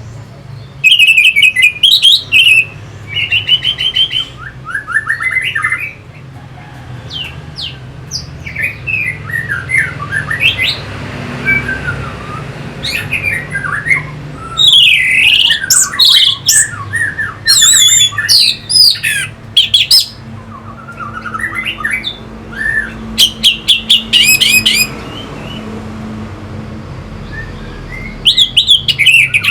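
Orange-headed thrush singing: bursts of rapid, varied whistled and chattering phrases with short pauses between them.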